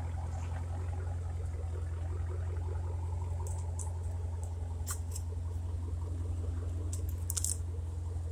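Dodge Challenger's 392 HEMI V8 idling with a steady deep drone, with scattered light clicks over it.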